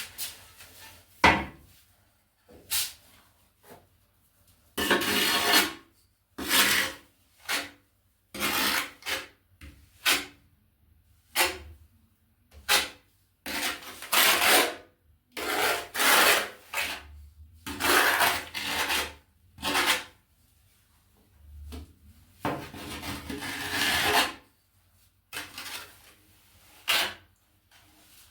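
Steel trowel scraping tile adhesive, with a series of separate rasping strokes, most of them under a second and a few up to about two seconds, and a sharp knock about a second in.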